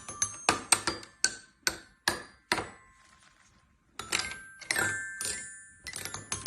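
A run of sharp, irregular taps, each with a brief high ringing, about two or three a second, pausing for about a second midway.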